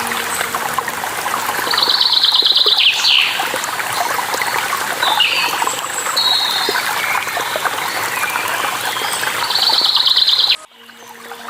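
Running water with birds singing over it: two rapid trills, one about two seconds in and one near the end, and scattered chirps in between. About a second before the end the sound cuts out abruptly, then fades back in.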